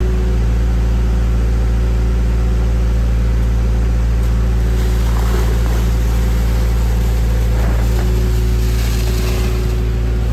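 An engine running steadily at one constant speed, loud and close, with a deep hum that starts abruptly and does not change.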